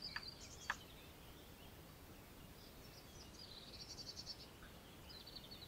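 Faint garden ambience with a few short, high bird chirps and twitters, plus a couple of soft clicks in the first second.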